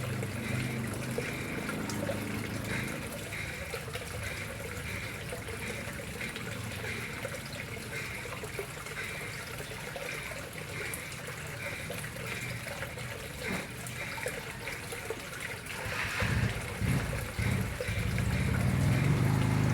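Water trickling and splashing steadily into a koi pond. A louder, uneven low rumble joins about sixteen seconds in.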